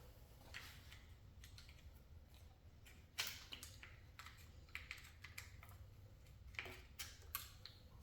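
Faint, scattered light clicks and taps from parts and hand tools being handled on an engine, over a low steady hum.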